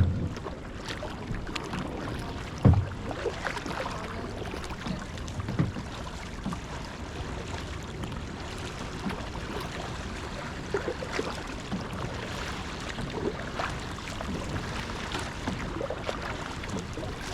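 Kayak paddling: paddle blades splashing and dripping in shallow water, with a few low thumps, the loudest about two and a half seconds in.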